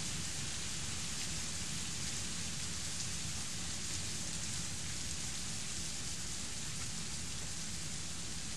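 Heavy rain pouring steadily onto trees, an even hiss with a low rumble underneath.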